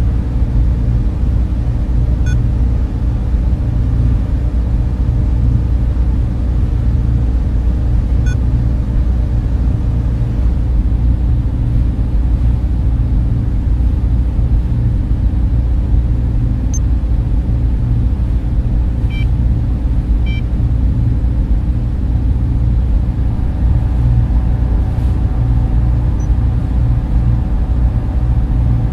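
Server room ambience: the steady, loud drone of cooling fans with a deep hum, unchanging throughout, and a few faint high ticks.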